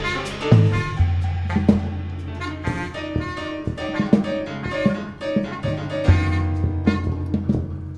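Small jazz ensemble of trumpets, baritone saxophone, tuba, keyboards and drum kit playing a habanera. Long low bass notes sit under the horn and keyboard lines, with frequent drum strokes.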